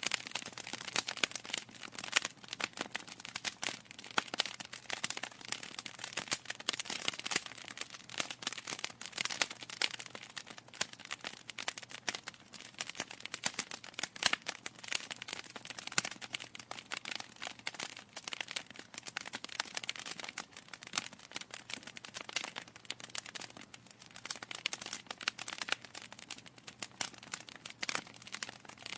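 Wood fire crackling in a fireplace: a continuous stream of sharp pops and snaps from burning logs, with a faint steady low hum beneath.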